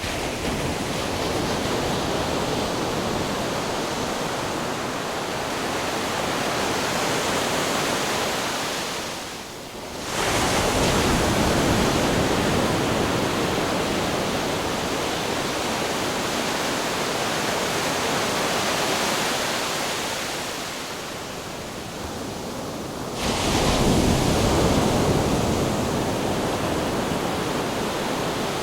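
Ocean surf rushing continuously, a dense wash of breaking waves; it eases off briefly twice and surges back abruptly, once about a third of the way in and again about four-fifths of the way in.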